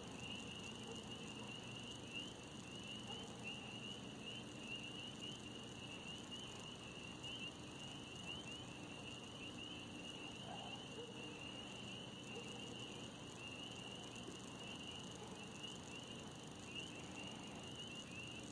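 Insect chorus: a steady, high, rapidly pulsing trill that holds unchanged over faint background hiss.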